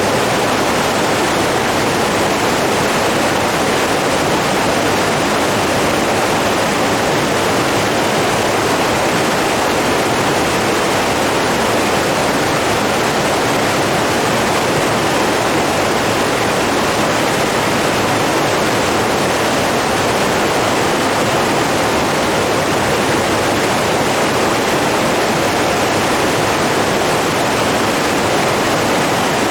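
Steady, even rushing of running water, with no change in level.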